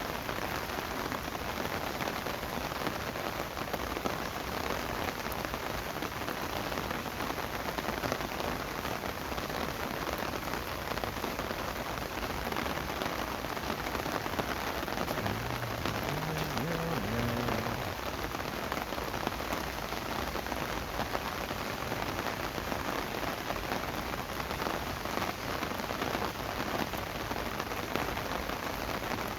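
Steady rain falling, an even patter of drops that keeps on without a break.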